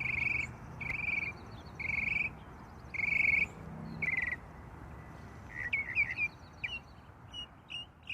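Birds calling: a run of short trilled calls repeated about once a second, then quicker chirps with pitch slides in the second half.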